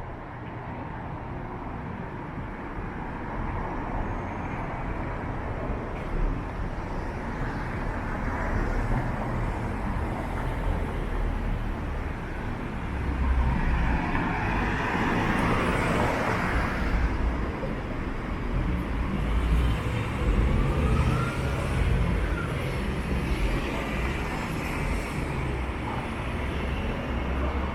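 Street traffic: a steady rumble of cars, with a vehicle passing close and loud about halfway through.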